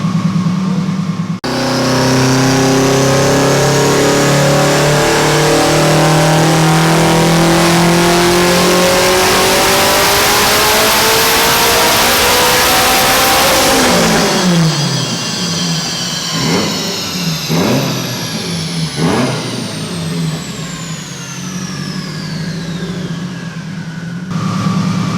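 Subaru WRX STI's turbocharged 2.5-litre flat-four making a full-throttle dyno pull: the engine note climbs steadily for about twelve seconds. Then it comes off the throttle, and the revs fall away with three short throttle blips while a high whine winds down. It settles back to idle near the end.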